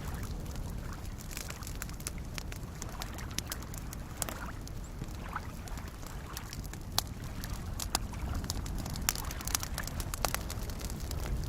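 Campfire crackling with scattered sharp pops, a few louder ones in the second half, over the steady low wash of small waves lapping at a lakeshore.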